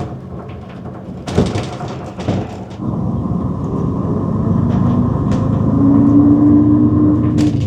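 Routemaster double-decker bus engine running, then two loud clunks about a second apart. The engine then pulls away, growing louder with a slowly rising note and a steady whine, heard from inside the bus.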